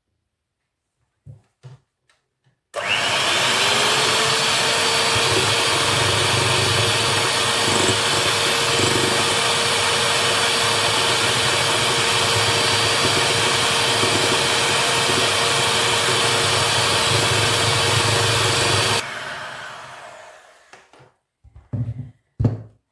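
Electric mixer switched on about three seconds in, its motor rising briefly in pitch to a steady whine as it whips the jelly mixture for fluff dessert to work air in. It is switched off and winds down, followed by a few light knocks.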